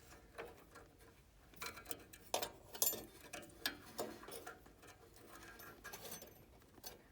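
Scattered small clicks, taps and light scrapes of metal parts being handled as a replacement furnace igniter is fitted back into its mounting bracket at the burner.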